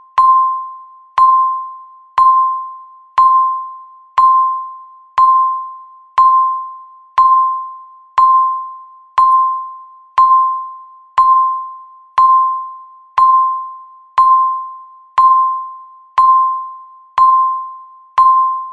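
Countdown timer beep: a single clear, bell-like tone struck once every second, each one starting sharply and fading away, all at the same pitch, about nineteen in a row.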